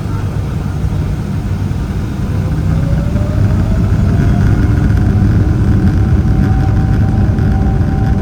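Boeing 777-300ER's GE90 turbofan engines spooling up, heard from the cabin: a steady low rumble with a whine that rises in pitch and gets louder about three seconds in.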